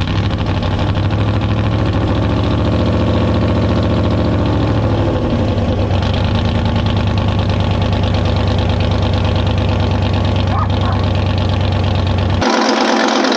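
A freshly built Ford Mustang engine running steadily just after being started, on one of its first runs and still building oil pressure. The sound cuts off abruptly near the end.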